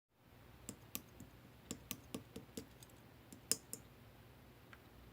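Clear slime being squeezed and pressed by hand, giving a series of about ten sharp, irregular clicks and pops as trapped air bubbles burst. The clicks stop about four seconds in, leaving faint background hiss.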